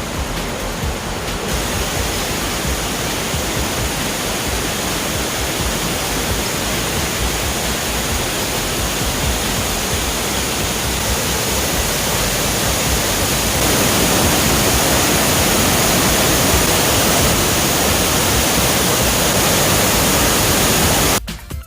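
A large monsoon-swollen waterfall: the steady rush of heavily falling water, getting louder about two-thirds of the way through and cutting off abruptly just before the end.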